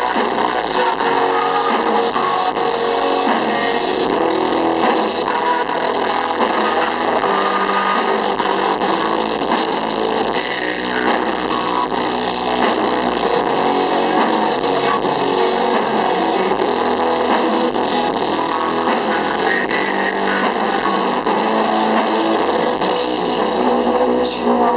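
Rock band playing live: electric guitars and drums in a loud, steady full-band passage of the song, with no sung words.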